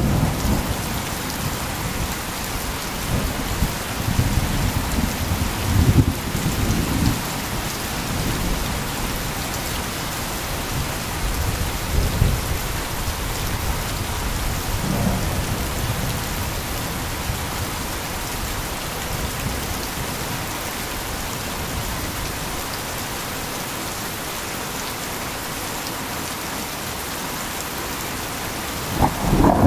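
Heavy rain falling steadily, with low thunder rumbling a few times in the first half and a louder roll of thunder starting near the end.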